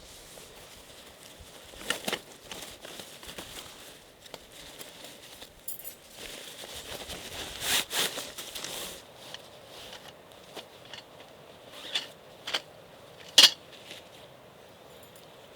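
Objects being handled at close range: scattered sharp clicks and knocks with rustling in between, the loudest click about thirteen seconds in.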